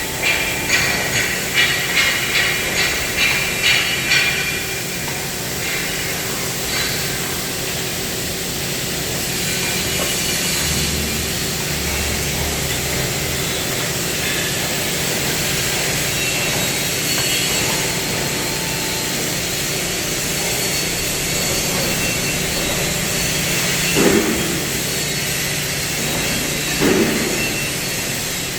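CNC cutting machine's torch running with a steady hissing roar over a low machine hum, with a rhythmic pulsing for the first few seconds. A few short knocks near the end.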